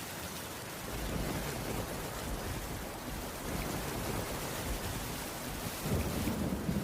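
Steady heavy rain, with low rumbles of thunder swelling about a second in and again, louder, near the end.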